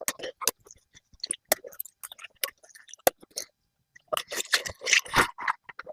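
Collard green leaves being harvested from the plant: a string of crisp cracks and crunches as the thick stems and leaves are broken and handled. A denser burst of crackling comes about four seconds in.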